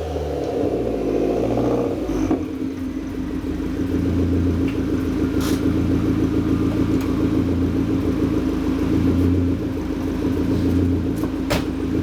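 Lancia Delta Integrale 16v's turbocharged four-cylinder engine through a Scara73 stainless exhaust, its revs settling in the first couple of seconds and then idling steadily. Two brief clicks, one about five seconds in and one near the end.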